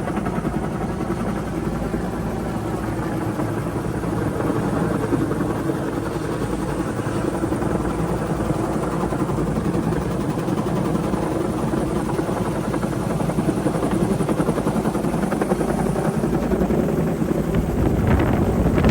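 Bell UH-1 'Huey' helicopter's turbine and two-bladed rotor running steadily in flight, swelling briefly near the end.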